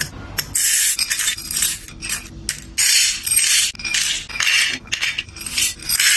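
A run of short rasping, rustling scrapes, about six or seven in a row, each lasting around half a second: handling noise from food or packaging being rubbed or scraped.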